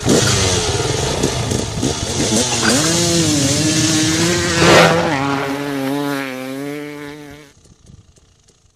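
Dirt bike engine revving up and down, with a loud whoosh about five seconds in, then holding a steadier note that fades out at about seven and a half seconds.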